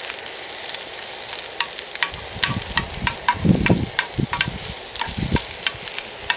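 Aloo tikkis and sliced vegetables sizzling in hot oil in a small pan, with many sharp crackles and clicks as a spoon and spatula work the food. Dull low knocks come between about two and five seconds in.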